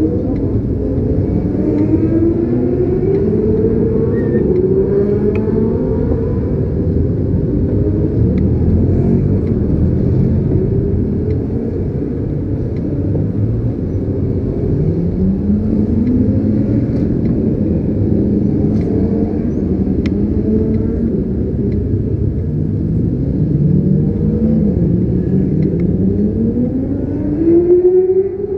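Motorcycle engines running and revving, their pitch rising and falling several times over a steady low rumble, with a louder rising rev near the end.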